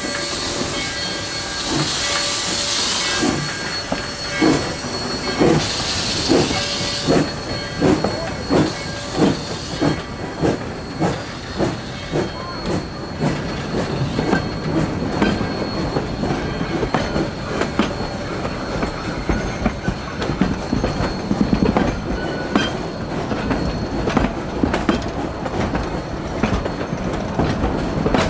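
Narrow-gauge steam locomotive getting under way: two bursts of steam hiss, then exhaust chuffs that start about four seconds in and quicken. In the second half they give way to the clicking and rumble of wheels over the rail joints as the train rolls by.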